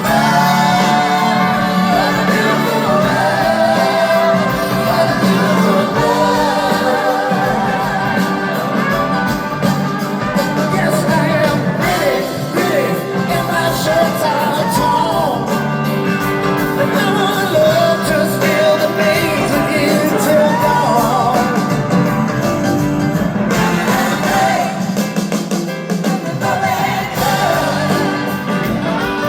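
Live rock band playing loudly, with singing over guitar, bass and drums.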